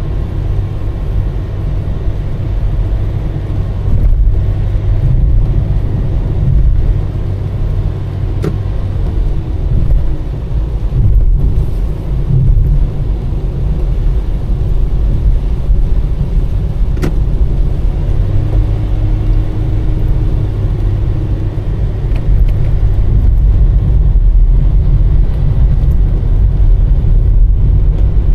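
Car driving along a road: a steady low rumble of engine and tyres, with two sharp clicks, one about a third of the way in and one about two-thirds of the way in.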